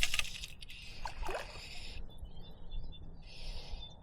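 River water sloshing and splashing, loudest in the first two seconds, over a steady low rumble.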